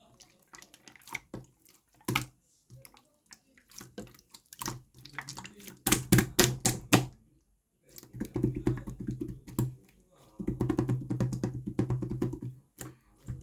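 Pink slime being squished and pressed by hand, giving sticky clicks and pops in uneven bursts, with runs of rapid popping about halfway through and again near the end after a short pause.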